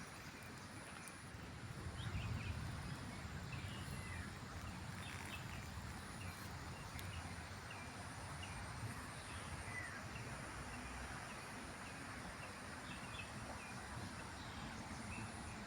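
Faint outdoor ambience: scattered short bird chirps over a steady background hiss and low rumble.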